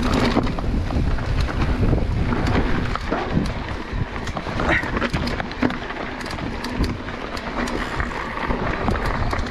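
Wind buffeting the microphone of a camera on a mountain bike riding a rough trail, with a steady low rumble and many short clicks and rattles from the tyres and bike over stones.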